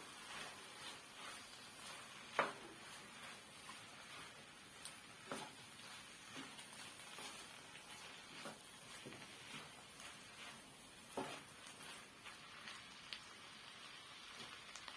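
Faint scattered taps and light scrapes of kitchen handling over a low steady hiss; the sharpest tap comes about two and a half seconds in, another near eleven seconds.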